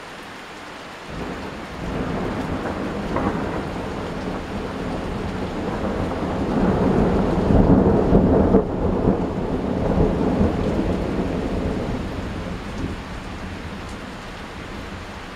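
A long roll of thunder that starts about a second in, builds to its loudest around the middle and slowly fades, over steady rain.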